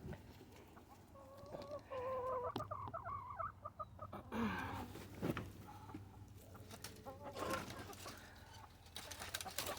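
Chickens clucking softly, a run of short low calls about one to four seconds in, with a few scattered clicks and rustles.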